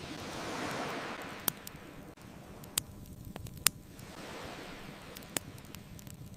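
Ocean surf washing in twice, swelling and fading, under a wood fire crackling, with four sharp pops standing out from the smaller crackles.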